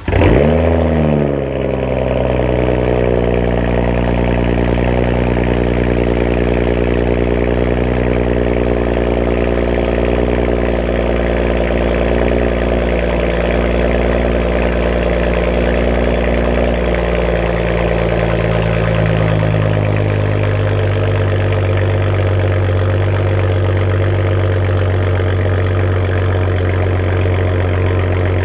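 BMW 335i's N55 turbocharged inline-six with the muffler deleted, catching right at the start, flaring briefly and settling to a loud, steady idle. About two-thirds of the way through, the idle steps down to a lower, deeper speed.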